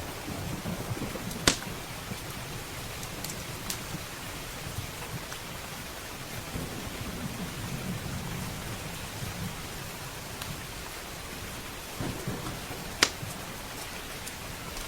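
Steady heavy rain with a low rolling rumble of thunder, and now and then the sharp pop of a crackling wood fire, two loud pops standing out, one about a second and a half in and one near the end.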